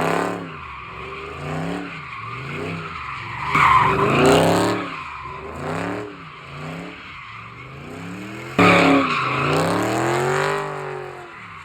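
A car spinning donuts, its tyres screeching and its engine revving up and down again and again, with loud surges about four seconds in and near nine seconds.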